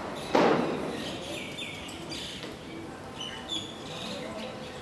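A sudden short rush of noise about a third of a second in, fading over about half a second, then birds chirping in short high calls scattered through the rest.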